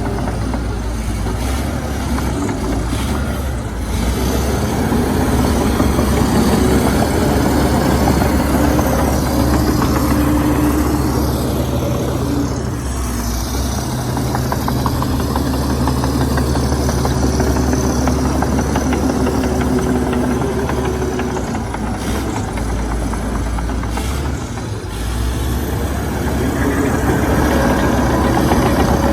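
Heavy diesel engine of earthmoving machinery running steadily, its revs and load swelling and easing several times as it works.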